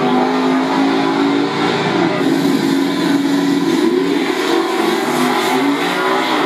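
Drag car's engine running hard at high revs down the strip, with a couple of brief dips in pitch.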